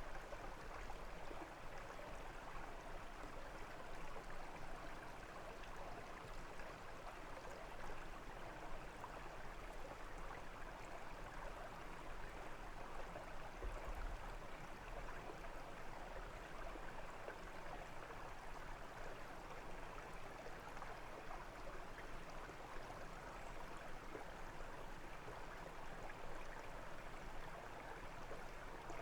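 Brook water running and babbling over stones: a steady, even rush.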